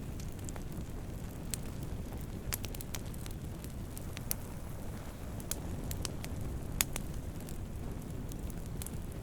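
Wood campfire burning, with a steady low rumble of flames and irregular sharp crackles and pops, one louder pop near the end.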